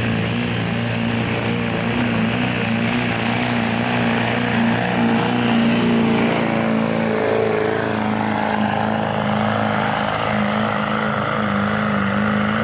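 Pickup truck engine running hard at steady high revs, pulling the weight sled down the track, with small rises and dips in pitch.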